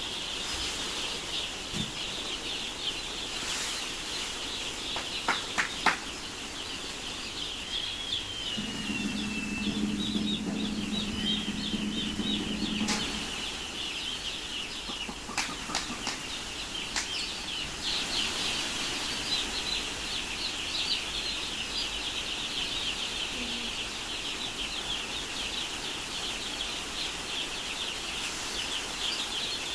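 A crowd of day-old chicks peeping without pause, a dense chorus of high, short chirps. A low steady hum joins for about four seconds near the middle, and a few sharp clicks sound here and there.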